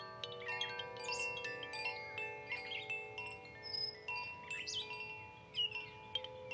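Koshi wind chimes (Fire and Air tunings) ringing, many tuned notes sounding and fading and overlapping each other, with songbirds singing short chirps and sweeps among them.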